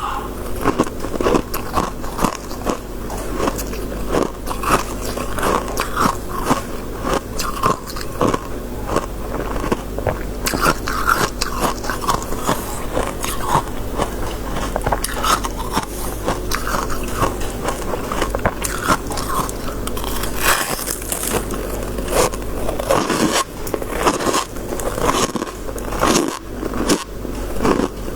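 Freezer frost being bitten and chewed: a dense, irregular run of crisp, icy crunches over a steady low hum.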